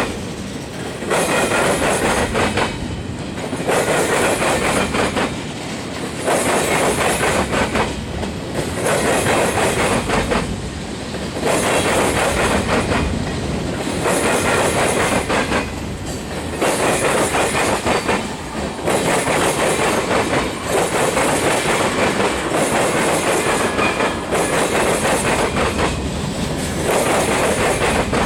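Freight cars of a manifest train rolling past at close range, steel wheels clacking over the rail joints. The sound swells and dips about every two and a half seconds as each car goes by.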